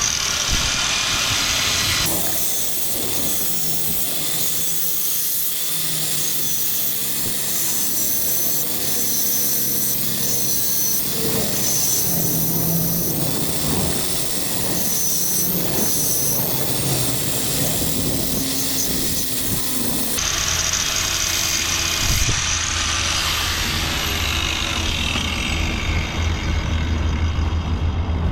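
Power tools working the sheet metal of a car's rusted sills, as a run of cut-together clips: the noise changes abruptly about two seconds in and again about twenty seconds in, after which a low steady hum runs under it.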